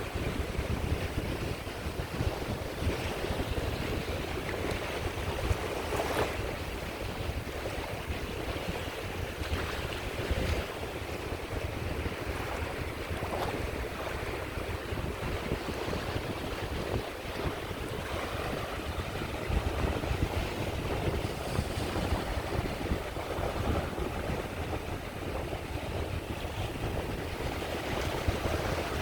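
Sea waves washing onto a shore: a steady surf hiss over a low rumble, swelling briefly now and then as waves break.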